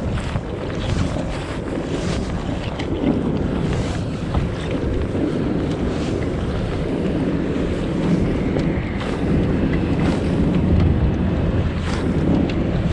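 Wind buffeting the microphone, with a steady rushing noise of water around a boat.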